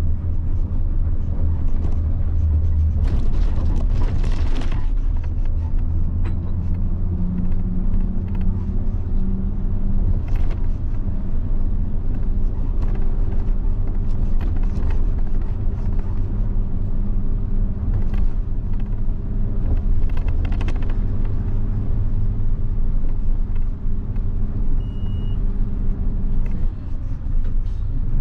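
A 1990 Mitsubishi Fuso bus's 7.5-litre diesel engine running while the bus is driven on the road. The engine note climbs slowly for several seconds and then holds steady. A brief hiss comes about four seconds in.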